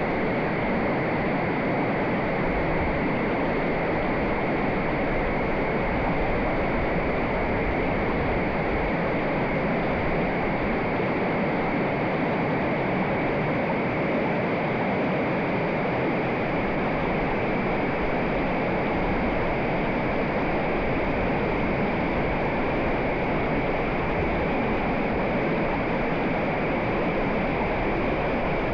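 Mountain river water rushing over rocks: a steady, unbroken rushing noise with no separate splashes or changes.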